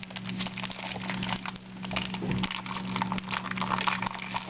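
Crinkling and crackling of a frozen burrito's plastic wrapper being handled and worked open, a dense run of irregular crackles. A steady low hum underneath.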